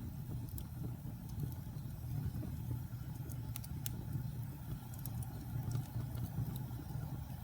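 Wood fire crackling in a fireplace: a steady low rumble of flames with scattered sharp pops, a few of them close together around the middle.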